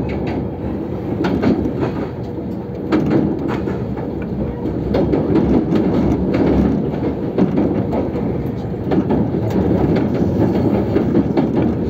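JR Shikoku 8000 series electric train running, heard from on board: a steady rumble of wheels on rail, with repeated sharp clicks from the rail joints and track.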